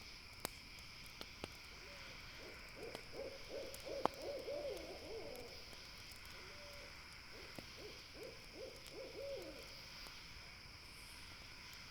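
An owl hooting in two runs of quavering notes, the first about three seconds long and the second about two, over the scattered pops and crackles of a campfire and a steady high background drone.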